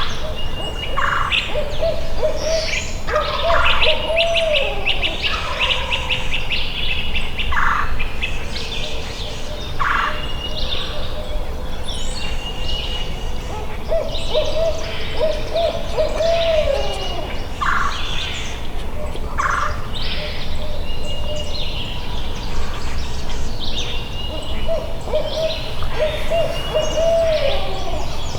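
Owl hooting three times in the barred owl's 'who cooks for you' rhythm, each series ending in a falling slur, with songbirds chirping and trilling throughout.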